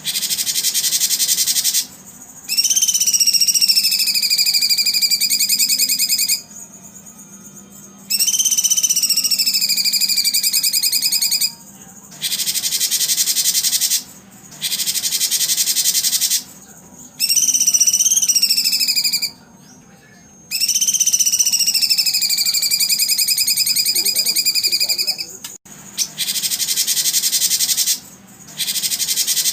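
Recorded nature track for conditioning competition songbirds: dense, high-pitched insect-like chirring that comes in blocks a few seconds long with short breaks. Over four of the blocks, a long whistled call glides down and then holds for several seconds.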